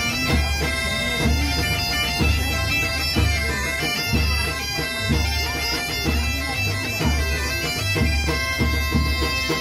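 Bagpipe music: steady held drone tones and a melody over a regular deep drumbeat.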